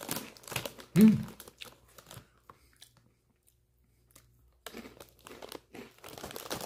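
Crunchy Cheetos being bitten and chewed with crisp crunching, and a short hum of the voice about a second in. After a quiet pause, more crunching starts, with the foil chip bag crinkling as it is handled near the end.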